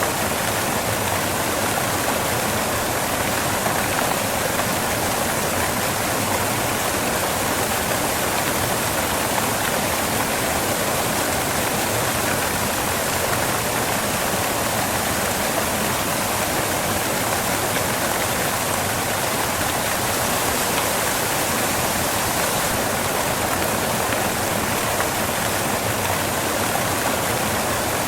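Waterfall crashing onto rocks, a steady, unbroken rush of falling water.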